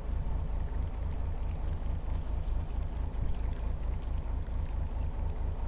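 Small fishing boat's engine running, a low, steady pulsing rumble.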